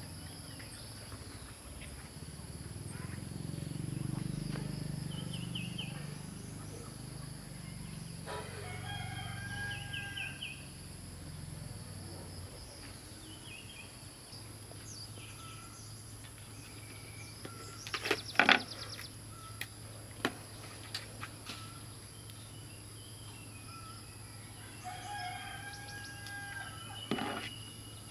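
A rooster crowing twice, about eight seconds in and again near the end, over a steady high-pitched tone. A quick cluster of sharp clicks about two-thirds of the way through is the loudest sound.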